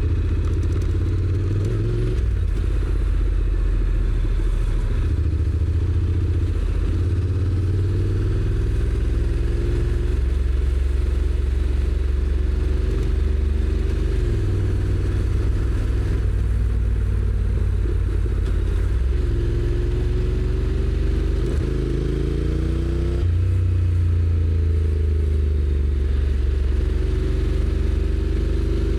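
Honda NC750X's 745 cc parallel-twin engine under way through its stock exhaust, its note rising as the bike pulls and stepping down several times as the DCT gearbox changes gear, over a steady low rumble.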